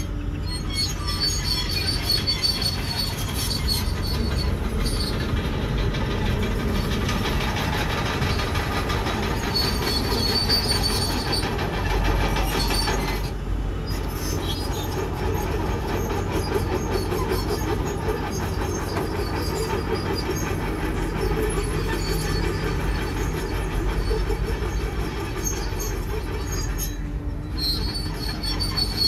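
Komatsu crawler bulldozer working, its diesel engine running steadily while the steel tracks clank and give off a high squeal that comes and goes.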